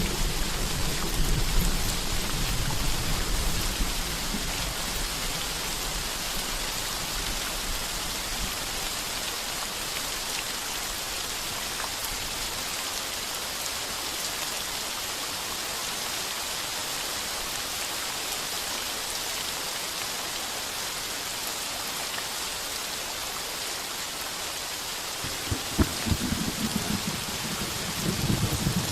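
Heavy rain pounding steadily on a tin roof. Thunder rumbles at the start and fades over the first several seconds, and a second peal of thunder comes near the end.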